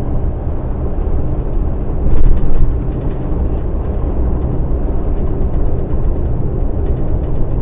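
Truck's engine and road noise heard inside the cab while driving: a steady low rumble that swells briefly about two seconds in.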